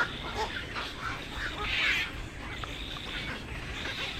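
Birds calling: a busy run of short, overlapping squawks and chatter, with the loudest a harsh squawk about two seconds in.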